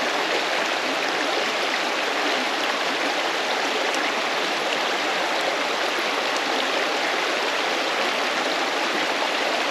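Mountain creek water running, a steady, even rush with no breaks.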